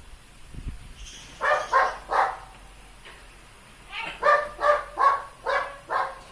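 A dog barking: three barks, a short pause, then a quicker run of about six more.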